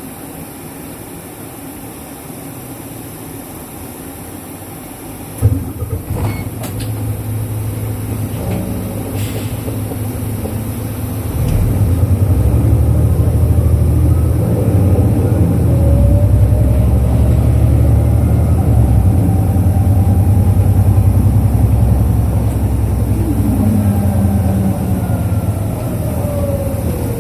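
Diesel engine of a 2005 Isuzu Erga KL-LV834L1 city bus running while stopped, heard from inside the bus. A sharp knock comes about five seconds in, after which the engine runs louder, and it grows louder again about eleven seconds in.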